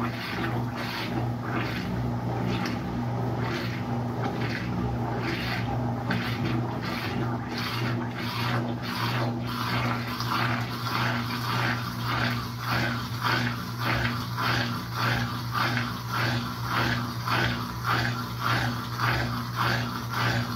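Washing machine running through a wash cycle: a steady motor hum under a rhythmic swishing about twice a second.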